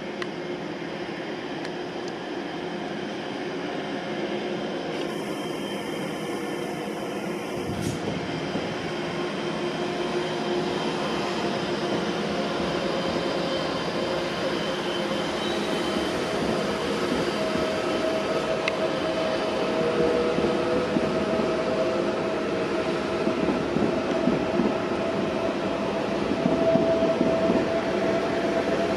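ICE high-speed electric train rolling slowly along a station platform. It makes a steady rumble with held whining tones, and one whine rises slightly in pitch in the second half. The sound grows gradually louder.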